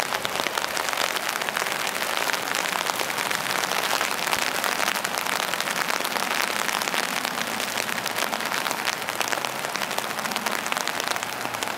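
Steady rain falling on wet pavement: a dense, even hiss of many small drop hits.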